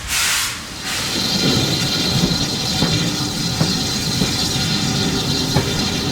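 Steam locomotive, with a burst of steam hiss in the first second, then a steady running rumble broken by occasional sharp clicks.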